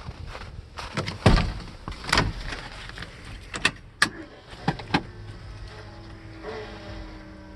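A series of sharp clicks and knocks, as of a pickup truck's door being opened and someone getting into the cab, then a steady electrical hum sets in about five seconds in, just before the cold engine is cranked.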